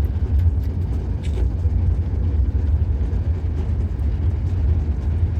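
Steady deep rumble and noise of a moving vehicle, with a few faint ticks about a second in.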